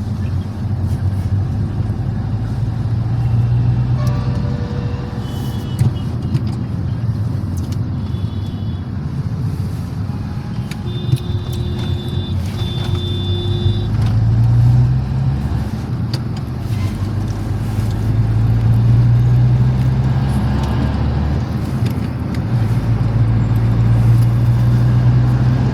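Car engine running in road traffic, its hum swelling and easing several times as it speeds up and slows. A few short high beeps sound around the middle.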